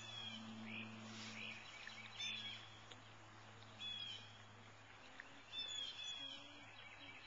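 Birds chirping: short, high calls repeated every second or so, over a faint steady low hum.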